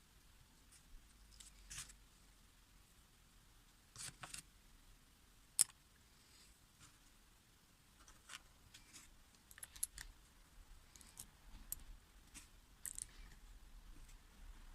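Faint, scattered clicks and light taps of small parts and tools being handled, with one sharper click about five and a half seconds in.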